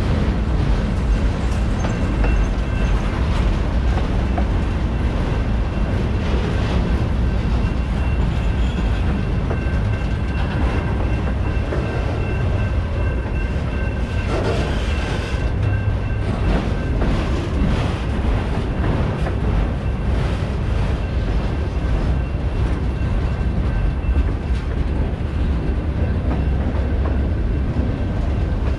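CSX freight train rolling steadily past, a continuous rumble of wheels on rail, with a faint high whine in the first half.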